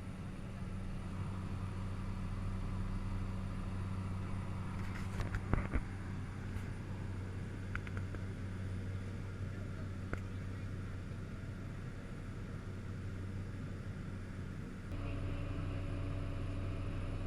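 Cessna 208 Caravan's single turboprop engine and propeller droning steadily in the climb, heard from inside the cockpit. A few short clicks come about five to ten seconds in, and the tone of the drone shifts about 15 seconds in.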